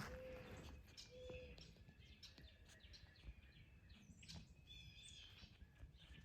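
Faint birds chirping over near silence, a few short calls through the middle of it.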